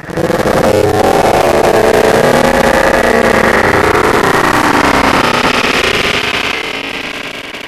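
A sudden, very loud, harsh distorted roar that starts abruptly, holds for about six seconds and then fades away.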